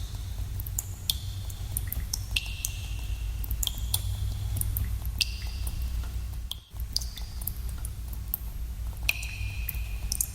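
Water drops falling in a cave, several plinks a second, many ringing briefly with a bright tone. A steady low rumble lies beneath, and the sound cuts out for a split second about two-thirds of the way through.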